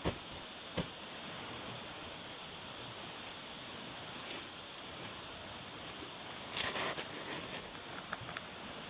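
Steady wash of surf and wind, with two sharp knocks near the start and a short burst of louder rustling or knocking about two-thirds of the way through.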